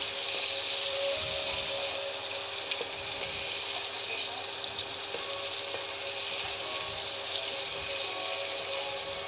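Whole shrimp with garlic sizzling in melted butter in a nonstick pan: a steady hiss, with a few soft clicks from the slotted spatula stirring them.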